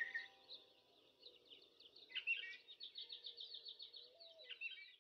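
Faint birdsong: small birds chirping with quick runs of rapid high repeated notes, and a louder call about two seconds in and again near the end.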